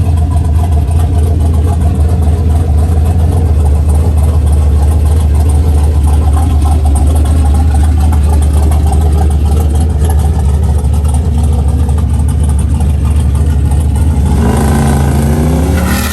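A vehicle engine running loudly and steadily with a deep drone. In the last two seconds its pitch rises as it speeds up.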